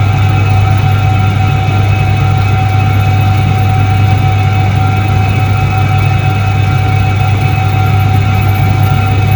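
1978 Soviet Iset-3 washing machine running: a loud, steady low hum with a thin, even whine above it, unchanging throughout.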